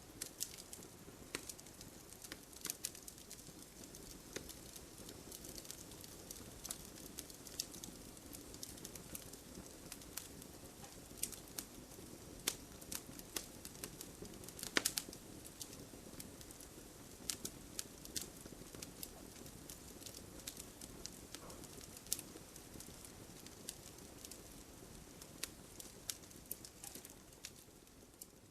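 Fire in a fireplace crackling: irregular sharp pops and snaps, several a second, over a soft steady low rush of flame.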